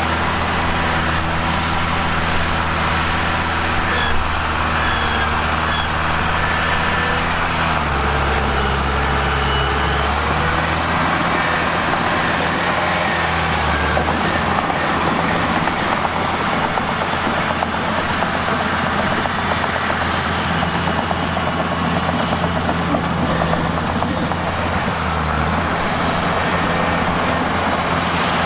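Bulldozer's heavy diesel engine running steadily, its low note shifting a few times as the load changes.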